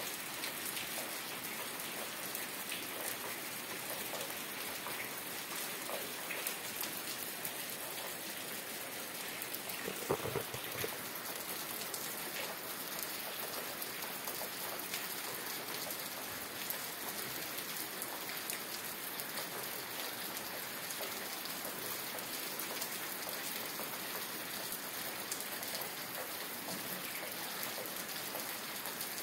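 Steady rain falling, an even dense patter of drops, with one brief slightly louder spot about ten seconds in.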